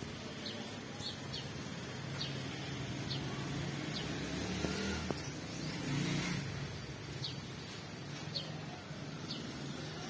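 A bird repeating short, high chirps that sweep downward, about one a second with a gap in the middle, over a steady low rumble that swells briefly about five to six seconds in.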